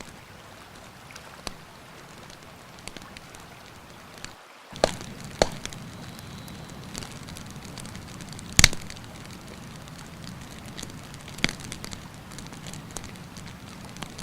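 Wood campfire crackling with irregular sharp pops, the loudest a little past halfway, over a steady rush of river water. The sound cuts out to silence for a moment about four and a half seconds in, and the rush comes back slightly louder.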